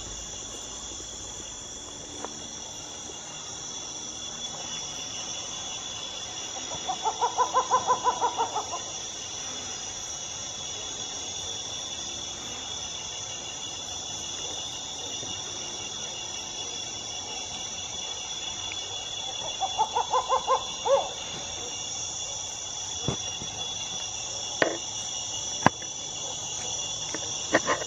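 Steady chorus of insects, with two separate runs of rapid pulsed calls from an animal, each lasting a second or two. A few sharp clicks come near the end.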